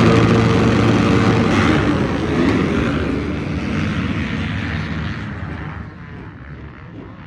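Off-road racing engines running loud and close, then fading steadily as they move away, much quieter after about five seconds.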